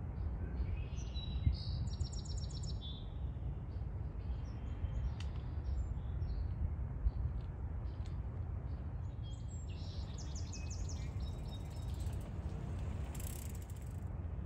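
Red-winged blackbird song: two short rapid trills, one about a second and a half in and another about ten seconds in, over a steady low rumble.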